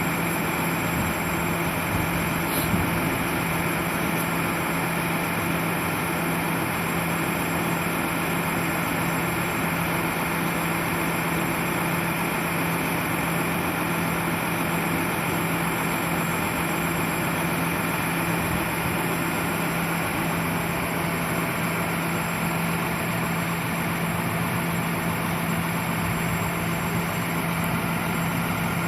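Boom truck's engine running steadily with an even low hum, unchanging throughout.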